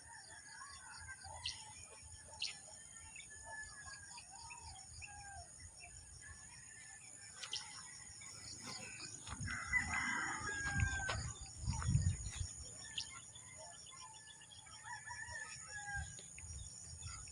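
Morning bird chorus: many short chirps and calls, with a rooster crowing about ten seconds in, over a steady high hiss. Low rumbles come in briefly around ten to twelve seconds in.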